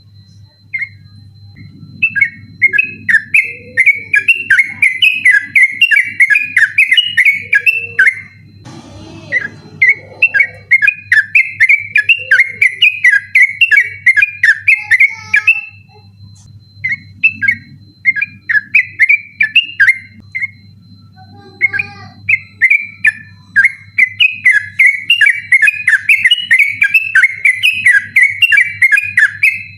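Yellow-vented bulbul (trucukan) singing a fast, unbroken run of chattering notes (the 'ropel' style), in long runs of several seconds with short breaks. A faint steady high tone and a low hum sit underneath.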